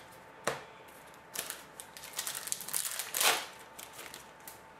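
Foil trading-card pack wrapper crinkling and tearing as a hockey card pack is opened and handled. There is a sharp click about half a second in, and the loudest rustle comes a little after three seconds.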